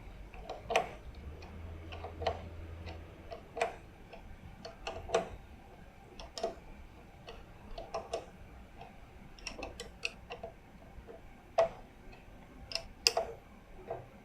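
Irregular metallic clicks and taps, one or two a second, of spanners working the nut and bolt of a motorcycle clutch lever.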